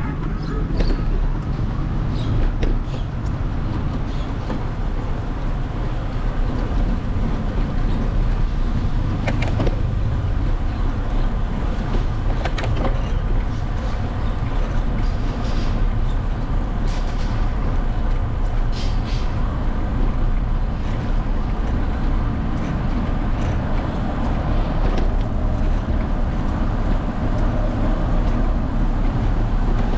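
Steady wind rumble on the microphone mixed with road noise while riding, with a few faint clicks.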